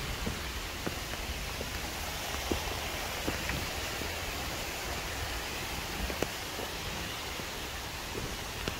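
Steady rush of water in a mountain valley, with scattered sharp ticks over it.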